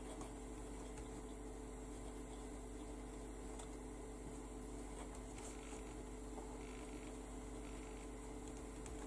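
Faint steady electrical hum, with a few soft ticks partway through.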